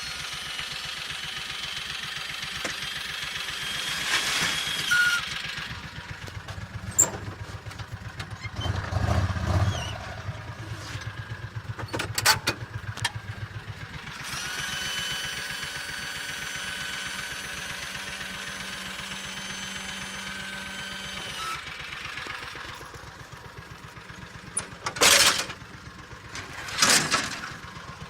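John Deere Gator HPX utility vehicle engine running steadily while a load of dirt is dumped from its cargo bed. A whine comes and goes twice over the engine, and several sharp knocks and bangs fall near the middle and near the end.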